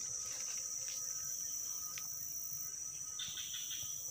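Insect chorus in swamp forest: a steady high-pitched drone, with a brief burst of chirping about three seconds in.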